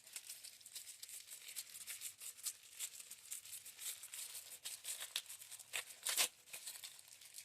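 Packaging being handled during an unboxing: a continual crinkling and rustling, with a louder crackle about six seconds in.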